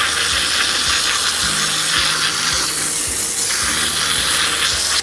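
Water spraying hard from a hose to wash out a gutter strainer screen: a steady hiss that stops abruptly at the end.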